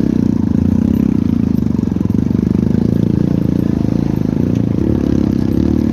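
Motorcycle engine running steadily at low revs under load, its pitch shifting slightly about five seconds in.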